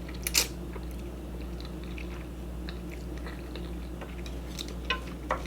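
Close-up chewing and biting of sauce-coated ramen noodles, with scattered small wet clicks and smacks, the loudest one near the start, over a steady low electrical hum.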